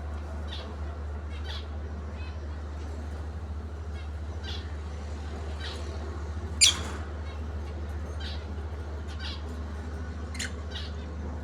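Lovebirds giving short, high chirps every second or so, with one much louder, sharp shriek about six and a half seconds in. A steady low hum runs underneath.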